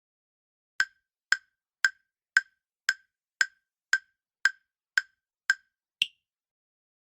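Quiz countdown-timer sound effect: short woodblock-like ticks, about two a second, eleven in all, the last one higher-pitched, marking time running out.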